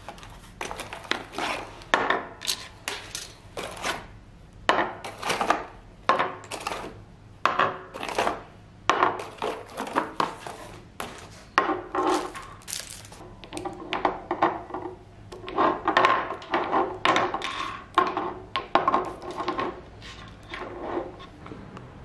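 Small hard objects being handled and set down, with irregular clicks, knocks and rustles several times a second.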